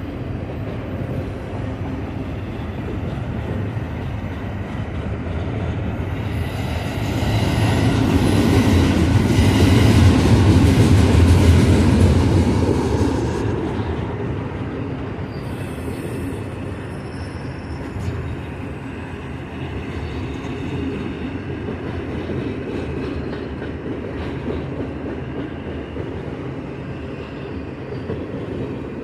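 Double-stack container train's well cars rolling past: a steady rumble of steel wheels on rail, with thin high wheel squeals at times. It swells louder for several seconds about a quarter of the way in, then settles back to the steady roll.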